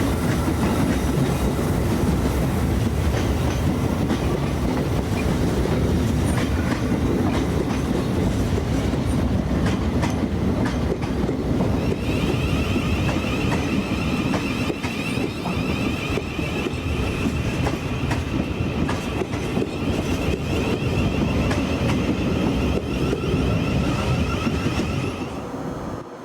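Class 387 electric multiple unit train running on the track, a steady loud rumble with wheels clicking over rail joints. About halfway through a high steady whine joins in and holds until the sound drops away just before the end.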